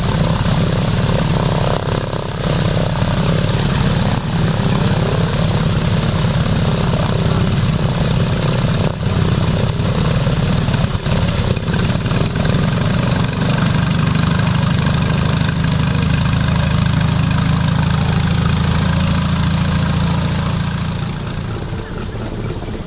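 Replica SE5a biplane's piston engine and propeller running steadily at a ground run, then easing off to a lower, quieter speed near the end.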